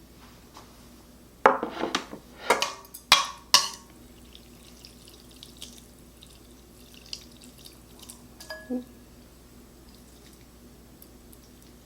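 A person slurping ramen noodles in several loud, wet pulls over about two seconds, followed by a few faint clicks.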